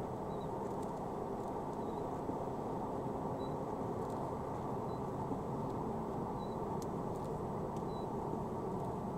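Steady low rumble of a car's engine and tyres heard from inside the cabin while driving, with faint short high tones recurring about every one and a half seconds.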